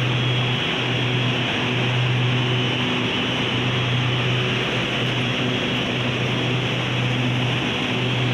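SRT Red Line electric commuter train: a steady low hum with an even rushing noise over it, unchanging throughout.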